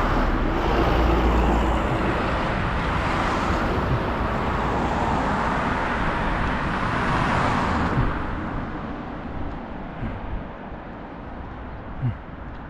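Mercedes-Benz car driving: steady road and tyre noise that dies down after about eight seconds as the car slows, with a short low thump near the end.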